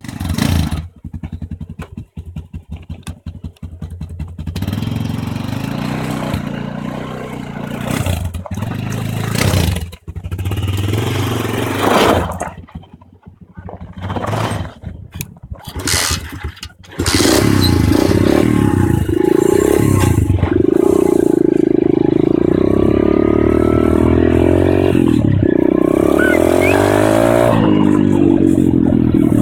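Pit bike engine picked up by a helmet-mounted camera: it idles with a quick pulsing beat at first, then is revved in short uneven bursts with brief drops. From about seventeen seconds in it runs steadily and loudly, its pitch dipping and climbing again a few times.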